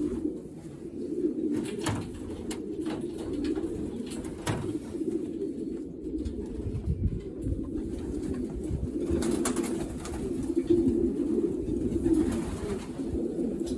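Racing pigeons cooing steadily in the loft, with a few short knocks and clicks scattered through.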